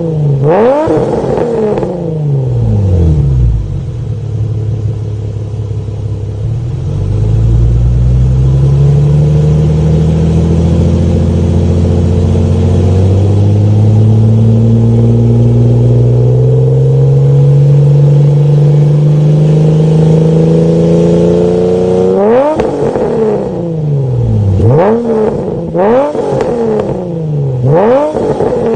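Modified Ford Mustang 4.0 V6 engine and exhaust revving: two quick revs, a short steadier stretch, then one long, slow climb in engine speed lasting about fifteen seconds that ends with a sharp drop. Four quick throttle blips follow near the end.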